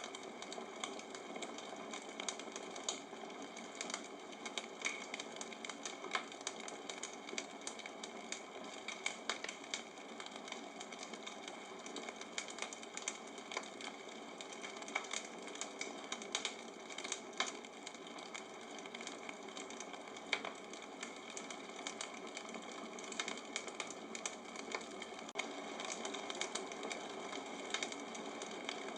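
Wood bonfire burning, crackling steadily with irregular sharp pops over a soft hiss of flames.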